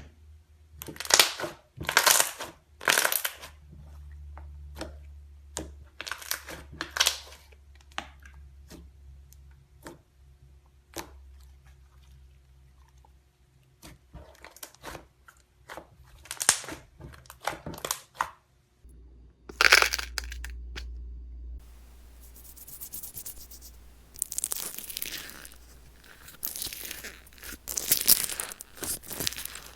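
Crunchy slime being handled, crackling and tearing in short bursts with pauses. About 19 seconds in the sound changes to denser, almost continuous crackling.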